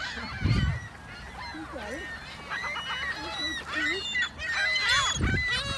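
A flock of birds squawking, with many short calls overlapping. Two brief low rumbles come through, one about half a second in and one near the end.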